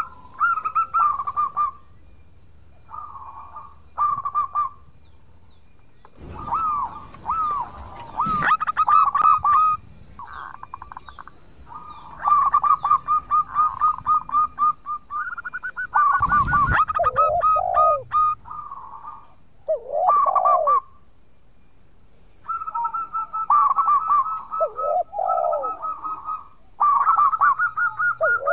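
Zebra dove (perkutut) singing: bursts of quick, ringing cooing notes with lower sliding notes, repeated phrase after phrase with short pauses between. A brief noisy rustle comes about six seconds in, and a dull bump about halfway through.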